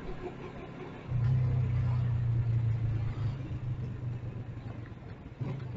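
A motor vehicle engine in city traffic, running with a loud low steady hum that starts abruptly about a second in and fades toward the end, with a short knock near the end.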